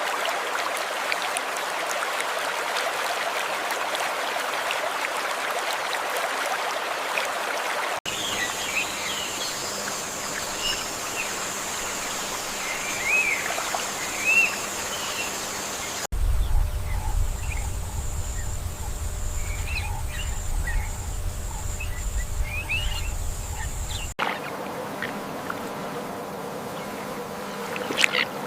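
Wild natural ambience in sections that change about every eight seconds. Scattered short bird chirps sound over a steady high-pitched insect buzz, with a low rumble under them for a while, between stretches of even noise.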